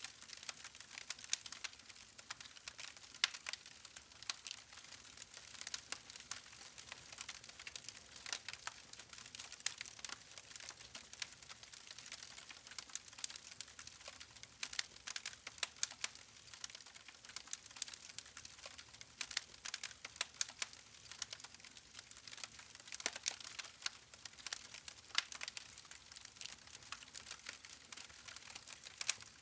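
Wood fire burning with constant irregular crackling: many quick sharp pops and snaps from the burning logs over a soft hiss.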